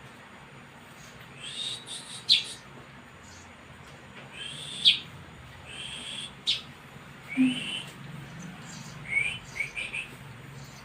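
Young maya bird chick chirping: short, sharp calls that slide down in pitch, coming in small clusters every second or two.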